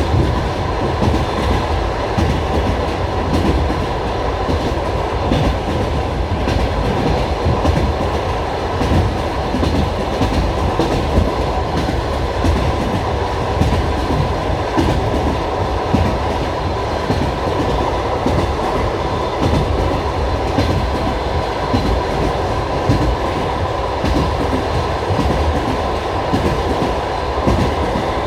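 Inside a moving passenger train carriage: a steady rumble with the wheels clattering over the rail joints, scattered sharp clicks throughout.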